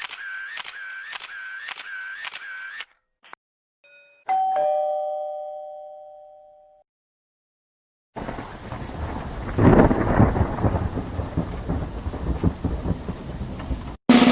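A run of stock sound effects. First, camera shutter clicks repeat about twice a second and stop near 3 s in. Then a doorbell chimes ding-dong, a higher note falling to a lower one that rings out. After a short silence, a thunderstorm: steady rain with a roll of thunder rumbling through it, cut off just before the end.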